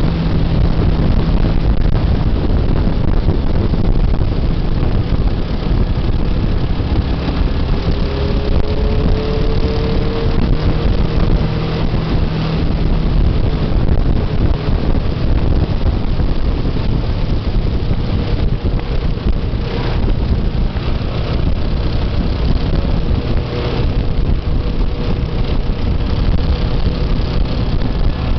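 Motorcycle being ridden along a road, its engine note running under heavy wind rush on the microphone, with slight shifts in pitch as the speed changes.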